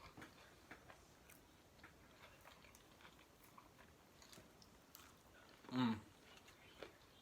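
Chewing and mouth sounds of someone eating: faint, scattered smacks and clicks, with one short voiced sound about six seconds in.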